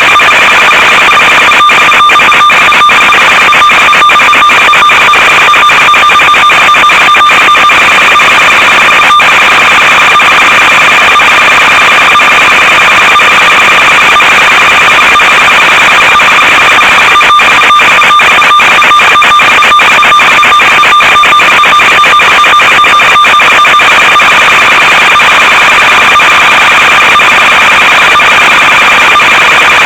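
Loud, steady static hiss with a constant high buzzing tone, broken by runs of rapid crackling clicks: the noise of an analog FPV video link's audio channel.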